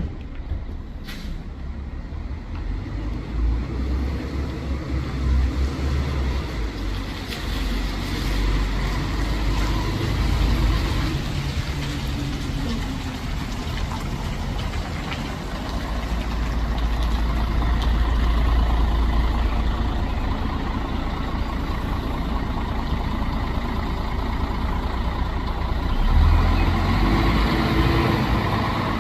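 Bus engine running with a heavy low rumble that rises and falls in strength, with a sharp click right at the start.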